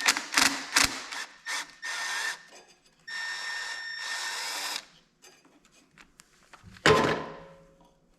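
Metal hand tools clinking and rattling, likely while looking for a flat-head screwdriver. Two longer scraping, rolling stretches follow in the first five seconds, then one loud metallic clang with a ringing tail about seven seconds in.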